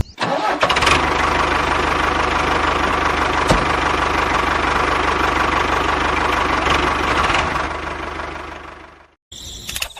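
A small motor running steadily with a fast, even buzz, fading out near the end.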